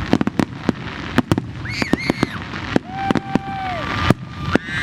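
Fireworks going off in quick succession: many sharp cracks and bangs, several a second, with a few whistling tones over them in the second half.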